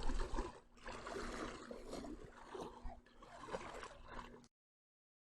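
Sea water sloshing and splashing irregularly under a low rumble. It cuts off suddenly about four and a half seconds in.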